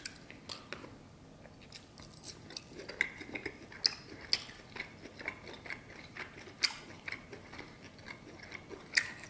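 A person quietly chewing a mouthful of seared steak, with irregular soft, wet mouth clicks and a few sharper ones scattered through.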